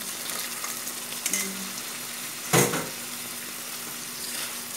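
Tuna, onion and egg sizzling in a metal wok while a spatula stirs and scrapes. About halfway in comes a short, loud splash and hiss as a little water is poured into the hot pan.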